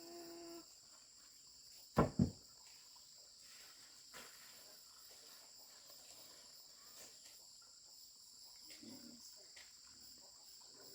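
Steady high chirring of insects in the background, with two sharp knocks in quick succession about two seconds in.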